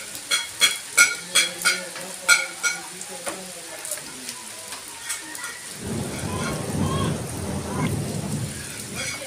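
Rain falling on flooded ground, a steady hiss. In the first three seconds there is a run of about eight short, sharp chirps, and from about six seconds in a louder rushing noise swells up.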